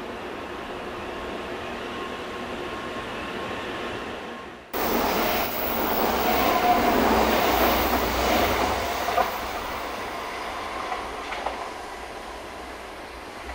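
Shinkansen high-speed train running past at the station, a loud rushing of wheels and air that starts abruptly about five seconds in, peaks and then fades away. Before it, steady lower rumble and hiss.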